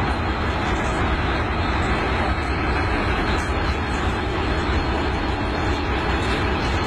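Steady, unbroken rumble of a train locomotive's engine running.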